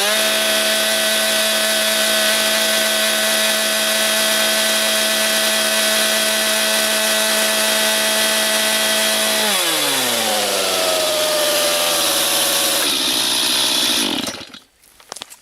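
Stihl chainsaw held at steady full throttle while cutting lumber. About nine and a half seconds in, the engine speed falls away as the throttle is released, and the engine stops about fourteen seconds in.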